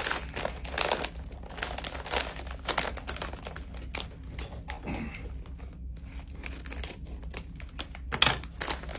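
Candy packaging crinkling and being torn open by hand, with dense crackling for the first few seconds that then grows sparser.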